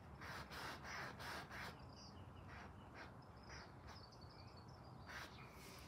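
A quick run of short scratchy sounds, about three a second, fills the first second and a half and returns briefly near the end. In between come faint, high bird chirps.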